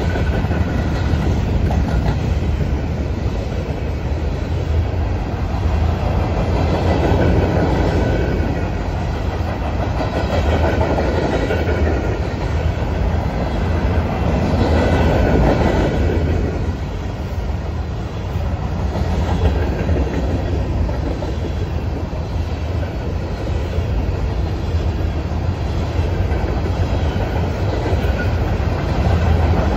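A long string of empty covered hopper cars on a freight train rolling past, steel wheels rumbling steadily and clacking over the track. The rumble swells and eases a few times as cars pass.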